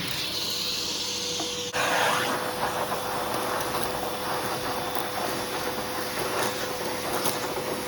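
Hoover vacuum cleaner running with a steady motor whine, sucking carpet powder up through a hand tool. About two seconds in, the rush of air abruptly changes and turns louder and fuller.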